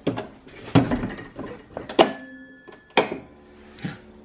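A handful of knocks and thuds. The loudest, about two seconds in, rings on briefly like struck metal.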